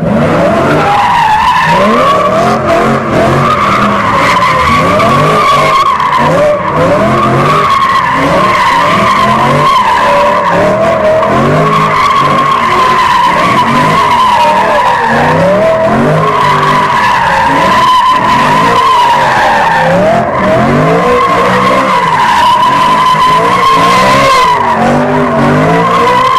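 BMW M3 E92's 4.0-litre V8, fitted with an iPE valved cat-back exhaust, revving up and down over and over while the tyres squeal in a long unbroken slide.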